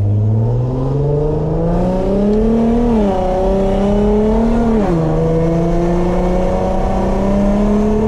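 Car engine accelerating hard through the gears. Its pitch climbs for nearly three seconds, then drops at an upshift about three seconds in, and drops again at another upshift about five seconds in before pulling steadily.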